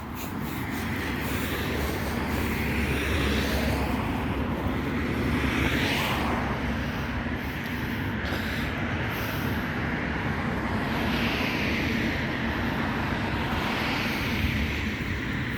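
A vehicle running steadily, a continuous rumble with a hiss above it that swells and fades every few seconds.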